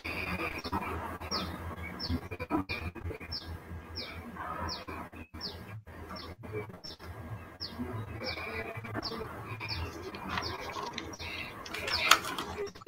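Short, high, falling chirps repeated steadily, about one every two-thirds of a second, like a small bird calling, over a low hum and room noise. A brief louder noise comes near the end.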